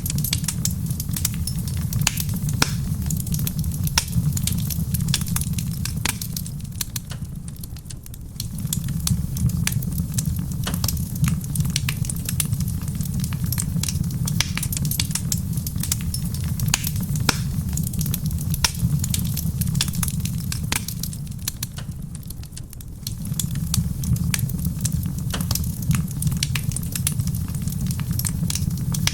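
Wood fire crackling in a stone fireplace, with frequent sharp pops and snaps. Underneath is a steady low rushing of soft rain, which fades down briefly twice, about a quarter of the way in and again about three quarters in.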